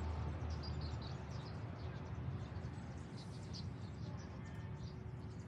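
Scattered short, high chirps of small birds over a steady low background hum.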